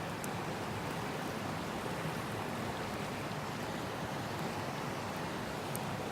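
River water flowing steadily, with a couple of faint high ticks.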